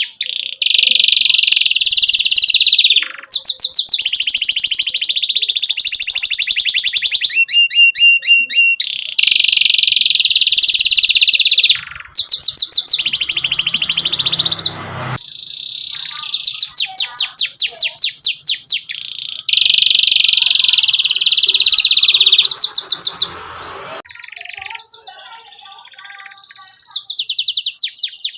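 Domestic canary singing a loud, continuous song of fast trills and rolls: long runs of rapidly repeated notes, changing phrase every few seconds. The song drops to softer, scattered notes near the end before a fresh trill starts.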